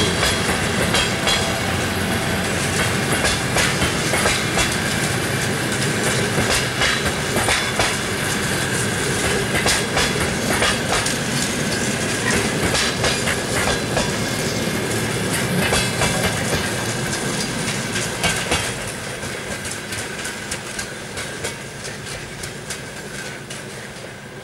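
Passenger coaches rolling past, their wheels clattering over the rail joints in an irregular clickety-clack over steady rolling rumble, with a thin steady high tone underneath. About three-quarters of the way through, the sound starts to fade as the train moves away.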